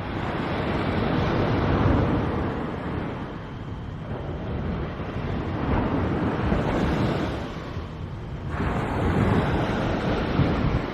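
Surf breaking on a beach, swelling and fading in slow surges every few seconds, with wind on the microphone.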